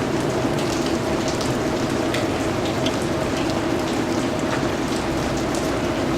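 Steady rainfall, with a constant hiss of rain and scattered individual drops striking close by.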